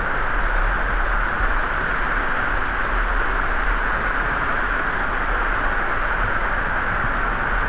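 Steady rush of falling and flowing water from a waterfall, an unbroken loud hiss with a low rumble beneath it.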